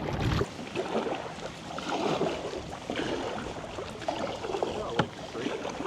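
Kayak paddle strokes swishing and splashing in the water, in irregular swells, with one sharp knock about five seconds in.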